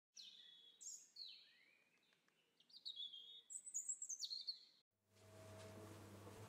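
Bird song: a run of high, clear whistled phrases that slide and step down in pitch, ending about five seconds in.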